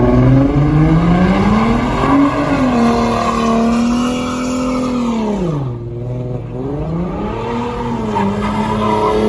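Car engine revved hard: the revs climb over the first two seconds and are held high, drop sharply about six seconds in, then climb and hold again.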